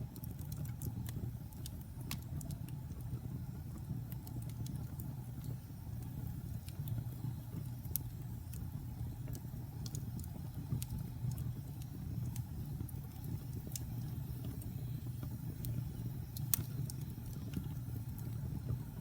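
Wood fire burning in a fireplace: a steady low rumble of the flames with frequent sharp crackles and pops from the burning logs, one louder pop late on.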